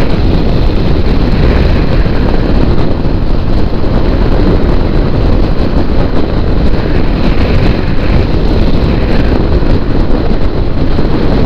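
Loud, steady wind rush on the microphone of a motorcycle riding at highway speed, with engine and road noise underneath.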